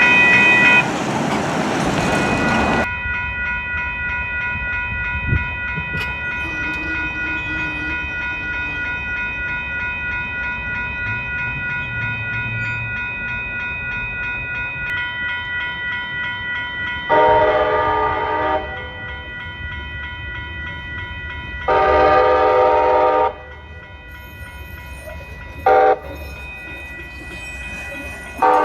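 A train passes close by at first. Then a grade-crossing bell rings steadily while a train horn sounds the crossing signal: two long blasts, a short one, and the start of another long one at the very end.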